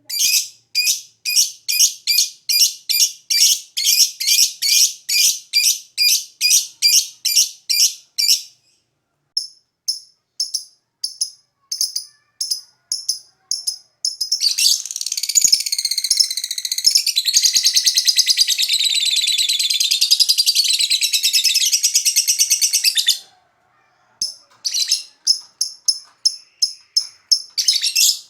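Lovebird calling: rapid, evenly spaced high chirps, about three a second, thinning out after about eight seconds, then one long unbroken high trill lasting about eight seconds, then quick chirps again.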